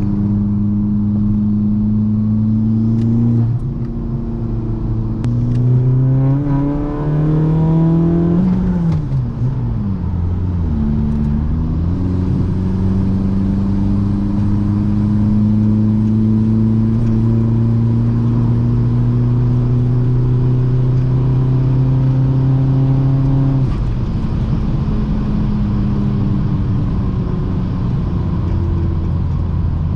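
Tuned 2.0 TDI diesel with a big turbo upgrade and a custom stainless exhaust with the emissions deleted, pulling hard through the gears: the engine note climbs, dips briefly at a shift about three and a half seconds in, and climbs again to about eight seconds. It then drops off sharply as the throttle is lifted, climbs slowly and steadily under light load for about twelve seconds, and falls back again about 24 seconds in.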